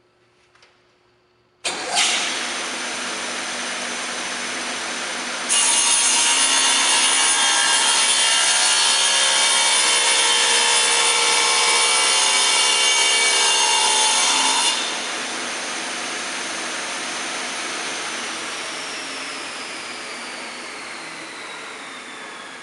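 SCMI SL 12 sliding table saw starting up suddenly about two seconds in and running steadily. From about five to fifteen seconds in it is much louder, with a high whine, as the blade cuts stock. It then runs free again, and in the last few seconds the pitch falls as the blade spins down after being switched off.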